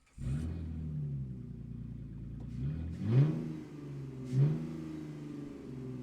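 Sports car engine running close by, starting up suddenly, then revved sharply twice, about three and four and a half seconds in, each rev rising in pitch and falling back.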